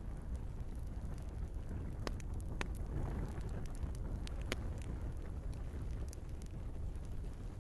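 Wood fire crackling in a fireplace: a steady low rumble of burning logs with scattered sharp pops, the loudest about two, two and a half and four and a half seconds in.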